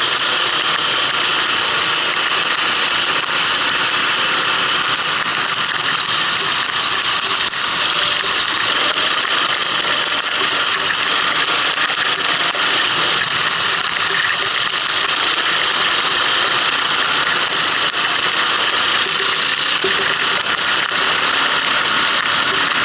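Racing kart engine running continuously during a lap on a wet track, an even, noisy engine sound with no clear revving glides.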